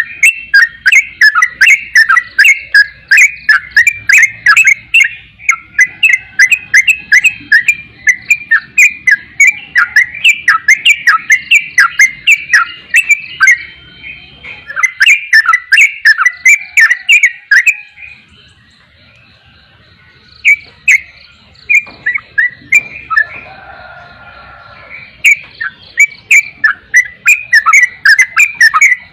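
Yellow-vented bulbul (trucukan) calling in fast runs of sharp repeated chirps, several a second. The chirps break off for a few seconds past the middle, then pick up again.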